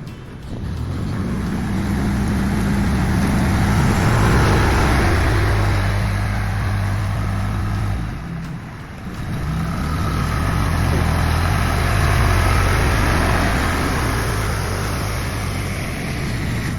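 A heavy engine running, building up and easing off twice, with a short dip in the middle.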